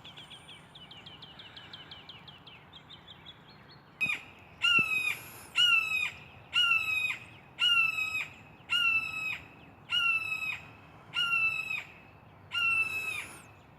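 A hawk calling repeatedly: about ten loud, slightly falling calls, roughly one a second, after a faint rapid series of high notes.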